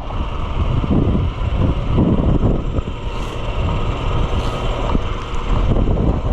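Strong wind buffeting the microphone over a running engine, a steady low rumble with gusty swells.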